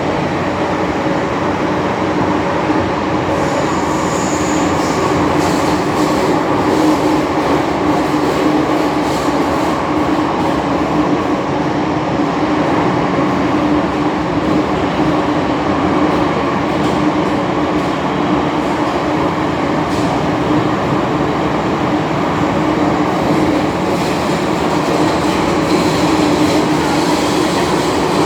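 MTR M-Train electric multiple unit running through a tunnel, heard from inside the cab: steady running noise with a constant low hum and a few faint clicks.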